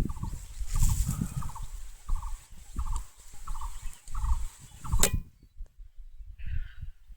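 A bird's short rattling call repeated about every two-thirds of a second, over a low wind-like rumble. A sharp click comes about five seconds in, and after it the calling and rumble stop.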